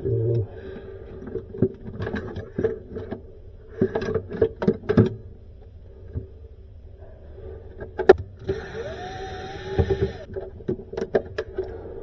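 Hands working on freezer drawer parts and wiring: a string of short clicks and knocks over a steady low hum, with a hissy stretch and a brief rising whine lasting about two seconds near the end.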